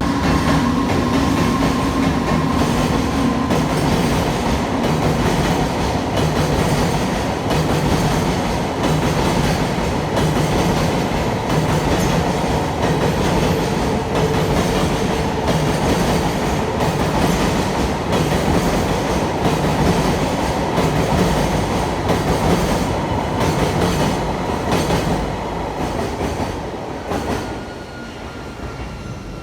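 Long freight train passing through a station: a steady rumble of wagons with wheels clacking over the rail joints, fading as the last cars go by near the end.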